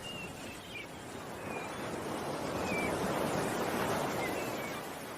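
Ocean waves washing in, a noise that swells to a peak about three seconds in and then falls away, with a few short bird chirps over it.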